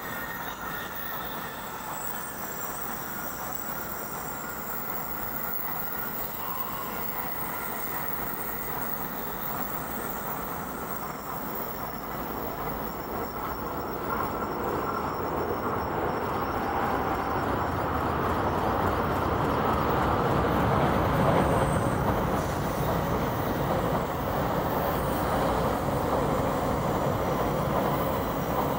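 300 series Shinkansen train running, a steady rail noise that builds gradually louder over the first twenty seconds or so and then holds.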